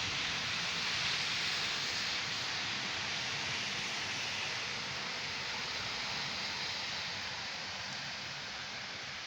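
Heavy rain during a thunderstorm, a steady hiss that slowly eases off.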